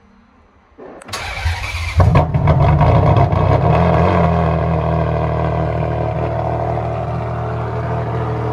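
A hypercar engine cold-starting: about a second of starter cranking, then it catches with a loud flare of revs about two seconds in and settles into a steady idle.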